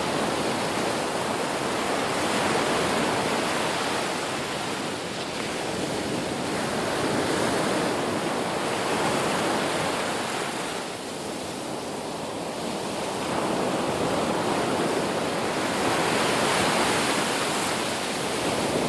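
Sea waves breaking and washing on the shore, a steady rush that swells and eases every few seconds.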